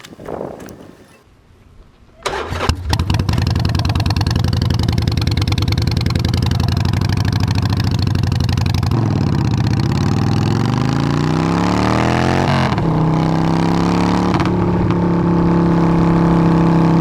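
Motorcycle engine starting about two seconds in, then running loudly. Its pitch falls and climbs again midway, then changes in steps and settles on a steady, higher note near the end.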